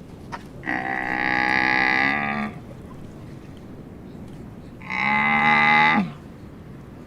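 A cow mooing twice: a long call and then a shorter one that falls in pitch at its end.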